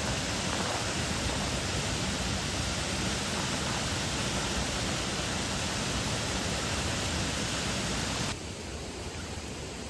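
Water rushing steadily down a small waterfall over rock, a constant hiss with no breaks. It becomes quieter a little over eight seconds in.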